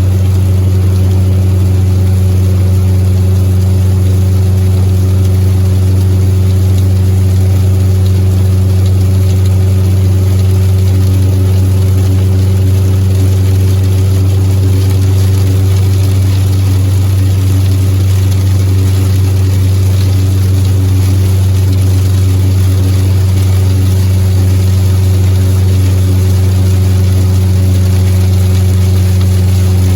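Old rear-wheel-drive pickup truck cruising at a steady speed, heard from inside the cab: a loud, even, low drone of engine and road noise, its pitch unchanging.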